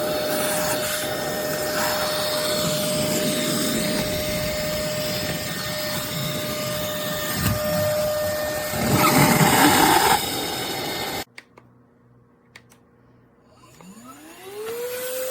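Lodick cordless stick vacuum cleaner running with a steady whine over rushing air. It grows louder and rougher for about a second before cutting off suddenly. After a short pause the motor starts again, its whine rising in pitch as it spins up near the end.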